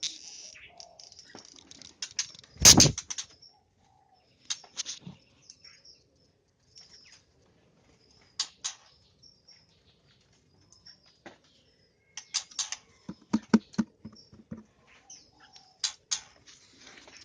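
Caged white-rumped shamas giving short, scattered high chirps, with wing flutters and knocks as they move about the cage: one loud knock about three seconds in and a quick run of low thumps about thirteen seconds in.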